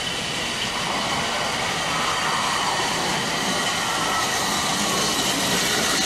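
Narrow-gauge train drawing slowly into the station, its running noise growing gradually louder, with a faint falling squeal from the wheels in the middle.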